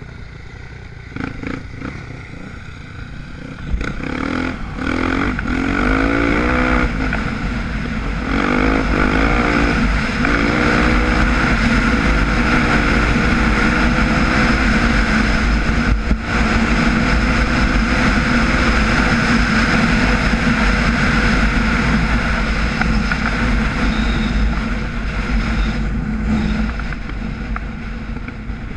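Off-road dirt bike engine accelerating hard through several gears, its pitch climbing and dropping with each shift, then holding steady at high revs at speed before easing off near the end. Wind rush on the bike-mounted microphone runs under it.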